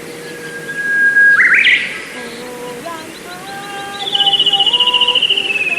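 Songbirds singing: a held whistled note that sweeps up into a quick, loud flourish about a second in, then from about four seconds a fast, rapid trill that slowly falls in pitch.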